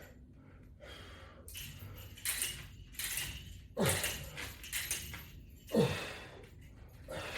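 Metal chains on a resistance-band bar rattling and clinking in several short, irregular bursts as the bar is pressed.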